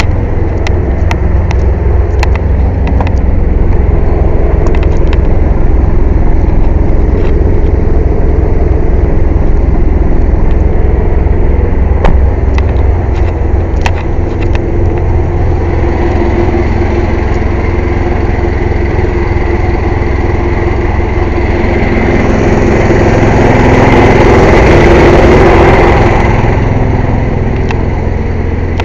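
Air compressor running loudly and steadily with a pulsing low rumble, and a few sharp metallic clicks and knocks in the first half. The running grows louder and hissier for a few seconds about 23 seconds in, then settles back.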